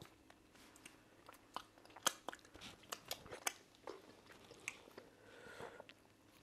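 Close-up mouth sounds of people eating cocoyam fufu and ofe nsala soup by hand: chewing, with many short, sharp lip smacks and mouth clicks scattered irregularly throughout.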